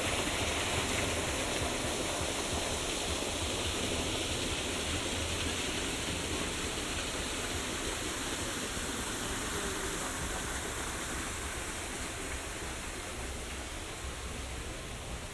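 Steady rush of water, an even hiss with a low rumble beneath, slowly growing fainter near the end.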